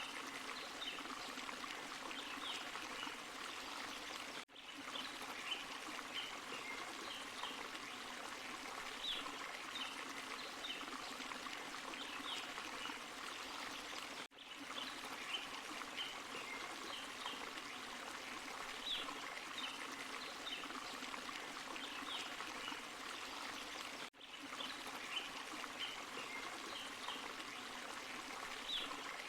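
Small forest waterfall and stream running steadily, with short high chirps above the water. The sound is a short loop of about ten seconds, with a brief dropout each time it restarts, three times here.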